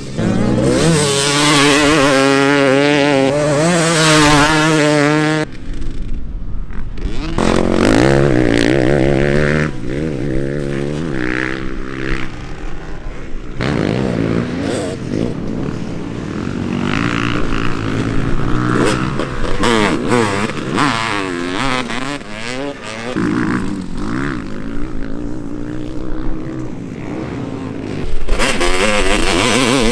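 Vintage motocross bikes riding a dirt track, engines revving up and down as they run through the gears. It is loudest and closest at the start, changes abruptly about five seconds in, and is loud again near the end.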